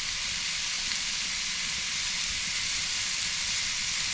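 Ribeye and sirloin steaks sizzling steadily as they cook in hot fat, an even high hiss.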